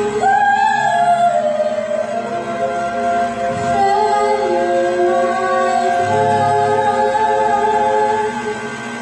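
Group of voices from a stage musical cast singing long held notes in harmony, fading out about eight seconds in.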